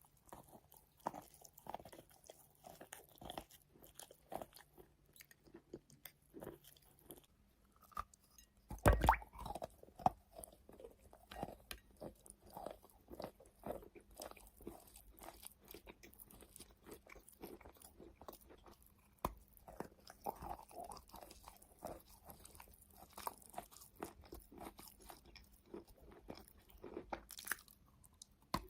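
Close-miked chewing of wet chalk: many soft, irregular crunches one after another, with one louder bite about nine seconds in.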